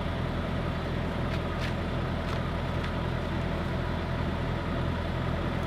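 Diesel truck engine idling steadily with a low, even rumble, with a few faint clicks in the first three seconds.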